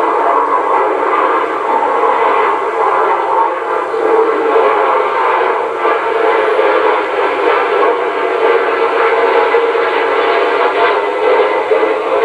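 Jet engines running steadily, a loud continuous whine over a rushing noise that holds its level and pitch without a flyby sweep.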